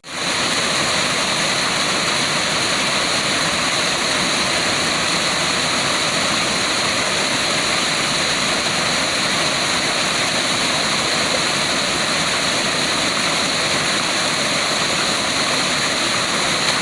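Waterfall: a steady, unbroken rush of falling water, after a momentary dropout at the very start.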